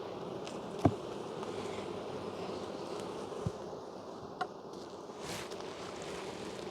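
Honey bees buzzing steadily in a dense cloud around an opened hive, with a few short clicks and knocks, the sharpest about a second in.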